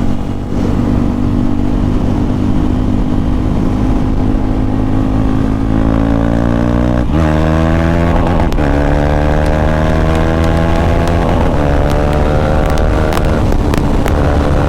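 KTM Duke 390 single-cylinder engine running without its exhaust silencer, at first holding a steady note, then accelerating with the pitch climbing, broken by two upshifts about seven and eight and a half seconds in.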